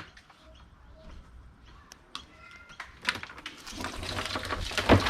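Cables and scrap being handled and sorted: scattered clicks and rustling that turn into a busy clatter of plugs and wire over the last two seconds.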